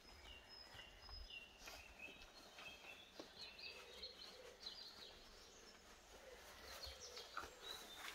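Near silence with faint birds chirping: a string of short, high chirps in the first half, and a few soft clicks and rustles.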